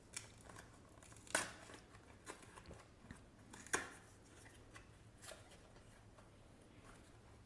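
A bar of soap being unwrapped by hand: its packaging rustling and tearing in short, sharp crackles, loudest about a second and a half in and again near four seconds.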